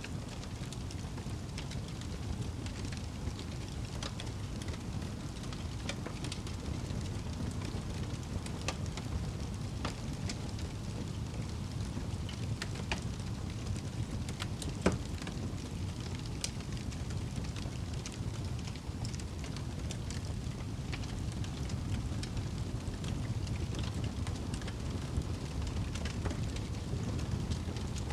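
Wood fire crackling in a fireplace, with a steady low rumble of the flames and scattered sharp pops, the loudest about halfway through.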